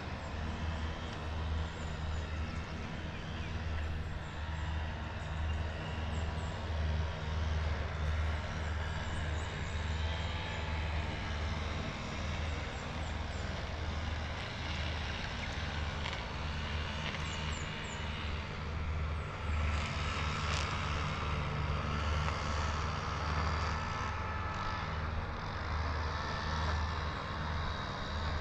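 Wind rumbling on the microphone of a moving bicycle-ride camera over a steady hiss of road and traffic noise, which grows louder for a few seconds about two-thirds of the way through.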